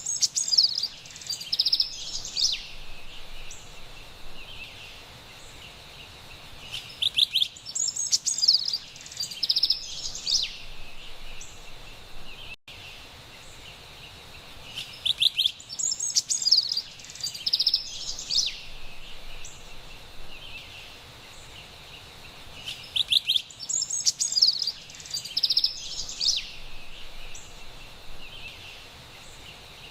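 Carolina wren singing: bouts of rapidly repeated loud, high phrases about every seven to eight seconds, each lasting around three seconds, over a steady faint high hiss of forest background.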